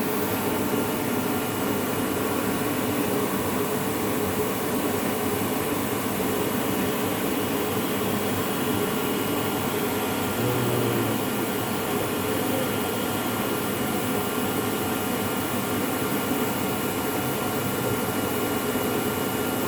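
Electric motor for an edgebanding machine running steadily on a test run, a constant whir with a few steady tones.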